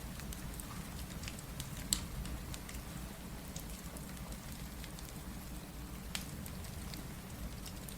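Steady rain mixed with a crackling wood fire: an even rushing hiss with scattered pops and crackles, the sharpest about two seconds and six seconds in.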